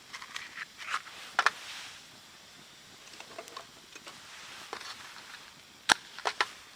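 Rustling with scattered sharp clicks and knocks; the loudest is a quick cluster of clicks about six seconds in.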